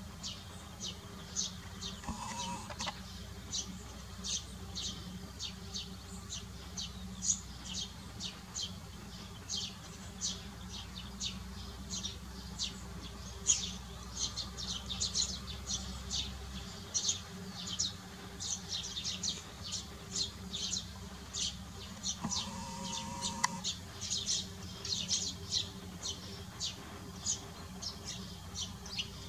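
Small birds chirping: a continuous stream of short, high-pitched chirps, a few each second, irregularly spaced.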